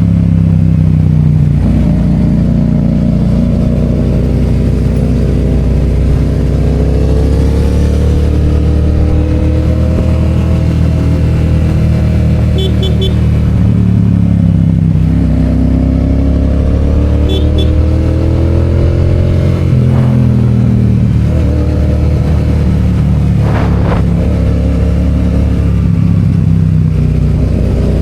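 Yamaha FZ-07's parallel-twin engine running under way, its pitch rising and falling again and again as the rider accelerates, shifts and rolls off. A couple of short clicks come through near the end.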